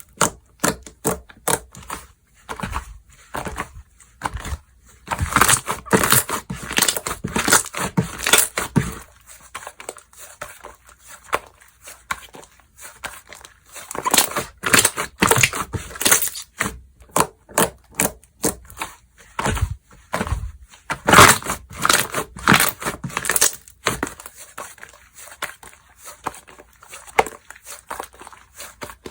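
Slime being squished, pressed and stretched by hand, giving dense, irregular popping and crackling clicks that come in louder clusters.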